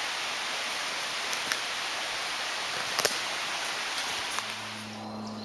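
Steady rushing hiss of outdoor woodland ambience, with a few faint clicks. Near the end a low steady hum comes in as the hiss thins.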